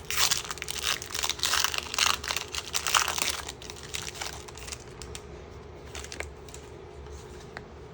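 Foil wrapper of a Pokémon card booster pack crinkling and tearing as it is opened, densest in the first three seconds or so, then a few lighter crackles.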